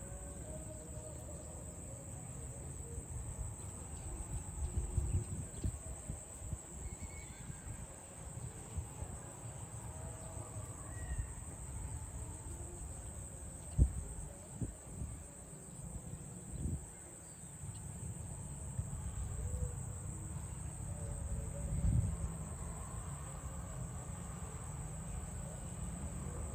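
Steady high-pitched chirring of insects, with an uneven low rumble underneath and a single sharp knock about fourteen seconds in.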